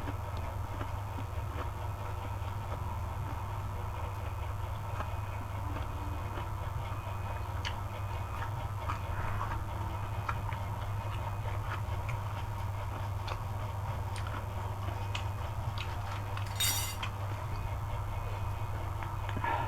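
Eating sounds over a steady low hum: scattered small clicks of chewing and cutlery, and one short crunch about seventeen seconds in, like a bite of kerupuk crackers.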